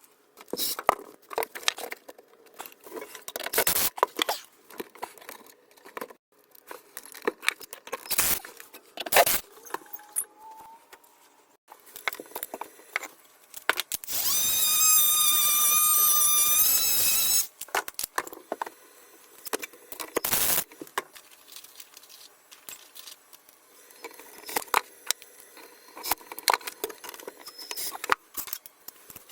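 Scattered knocks, clicks and scrapes of hand work on a kitchen cabinet floor. About halfway through, a steady high-pitched whine lasts about three and a half seconds.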